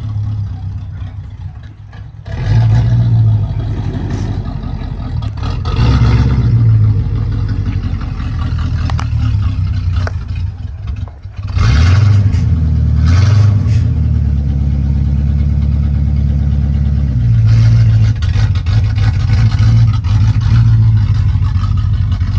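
Chevrolet Corvette engine idling roughly, its low note pulsing and surging unevenly: the rough idle the owner gets in drive or reverse. Twice, about two seconds in and near the middle, the sound dips and then picks up sharply.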